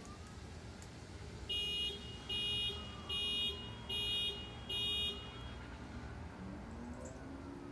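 Distant emergency-vehicle siren wailing, slowly rising and falling, over a steady background hiss. About a second and a half in, five short high-pitched electronic beeps sound evenly spaced, a little under a second apart, louder than the siren.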